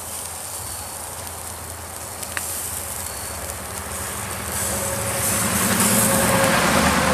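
Beef and bacon patties sizzling in a grill basket over a wood and charcoal fire, as meat juices leak onto the coals. The hiss swells louder about four and a half seconds in, over a low steady hum.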